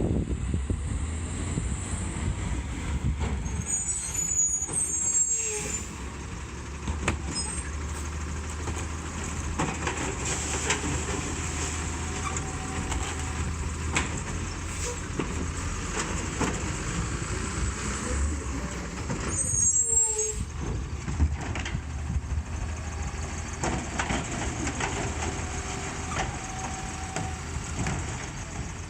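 Garbage truck engine running steadily, with scattered clanks and short high hisses about four seconds in and again around twenty seconds.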